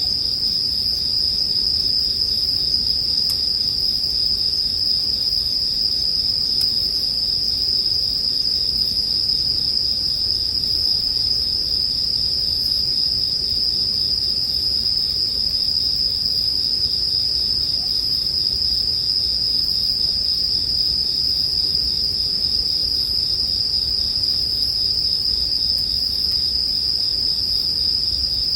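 Bell crickets (suzumushi) chirping in a continuous high, steady ring, over a low even rumble from a campfire with an occasional faint crackle.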